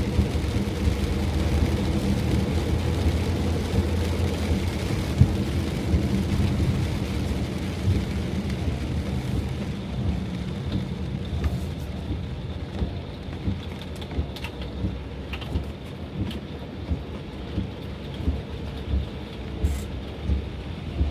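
A van driving in heavy rain: a steady low engine and road drone with rain hissing on the bodywork. From about halfway the hiss thins and scattered sharp drops tap on the van.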